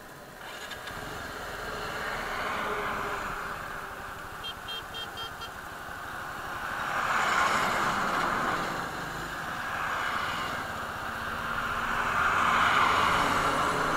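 Wind and road noise from a motorcycle at speed, picked up by a helmet-mounted action camera. It swells louder twice, about halfway through and again near the end.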